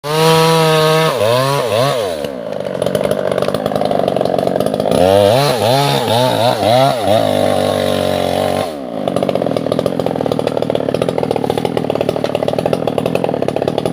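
Two-stroke chainsaw engine revving high, then its throttle is blipped up and down several times, the pitch swinging up and down. From about nine seconds in it settles into a steady, rougher pulsing note.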